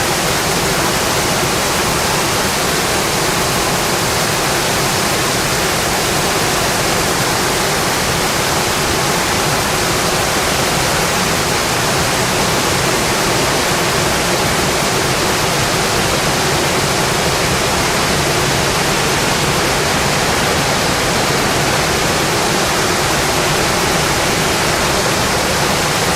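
Steady heavy rain, a dense, even hiss of falling water that does not change.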